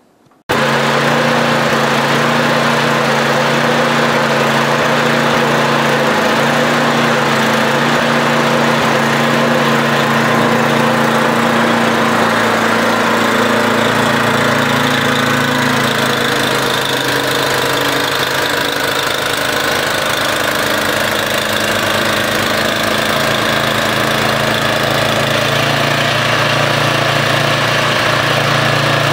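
Gasoline snowblower engine running steadily, clearing deep snow. It comes in suddenly just after the start, and its pitch shifts slightly about sixteen seconds in.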